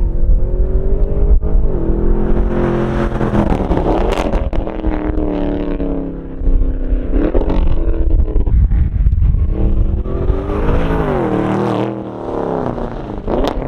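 A car's engine pulling hard on a track run, its pitch sweeping up and dropping back several times as it revs and shifts.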